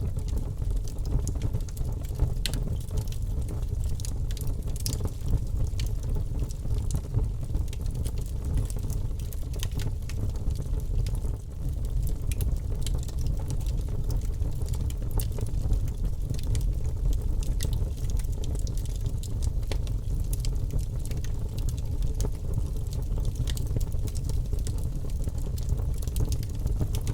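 Fire in a fireplace crackling, with scattered sharp pops and snaps over a steady low rumble.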